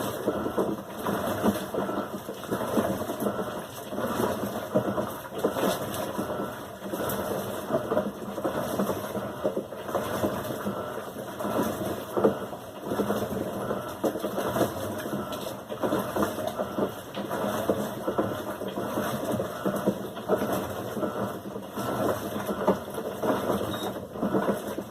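Electrolux Silent Control LAC16 washing machine running, a mechanical churning that rises and falls every second or two.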